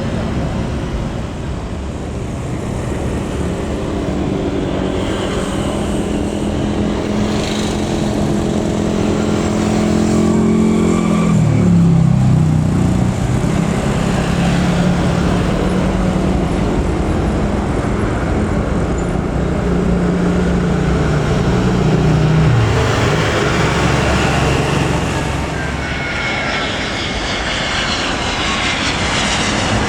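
Jet airliner passing low overhead, a loud steady rumble with a whine whose pitch falls in the last few seconds as it goes by.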